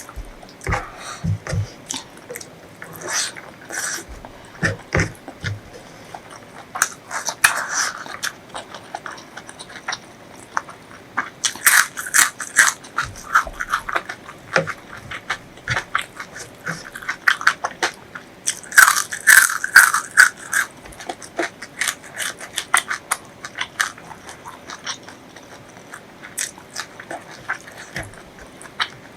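Close-miked eating sounds: crunchy bites and chewing of food, a continuous crackle of small clicks that grows busier twice, about a third of the way in and again past the middle.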